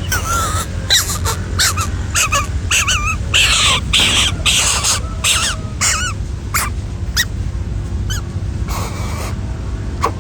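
Repeated short, wavering animal calls mixed with many brief noisy bursts, over a steady low hum.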